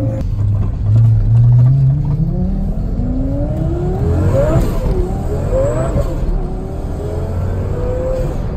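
Twin-turbo Lamborghini Gallardo V10 accelerating hard, heard from inside the cabin. The engine note climbs steadily and drops at a gear change about four and a half seconds in, then climbs and shifts again about a second later. After that it settles to a steady cruise.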